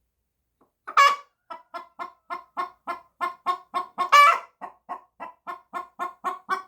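A hen clucking in a fast, even run of short clucks, about four a second, broken twice by a louder, longer squawk, about a second in and again about four seconds in. It is loud complaining.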